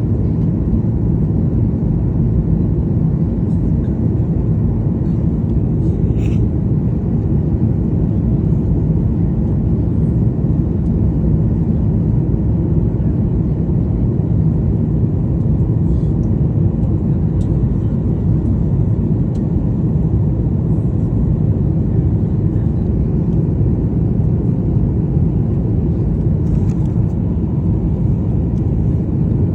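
Steady low rumble of engine and airflow noise inside the cabin of a Boeing 737-800 with its CFM56 turbofans running, with a few faint ticks.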